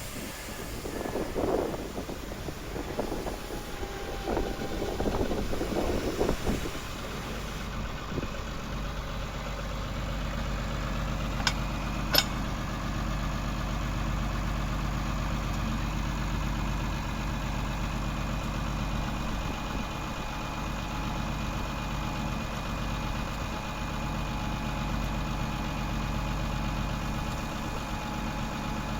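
Fiat F100 DT tractor's diesel engine running, uneven for the first several seconds and then settling into a steady idle. Two sharp clicks about twelve seconds in.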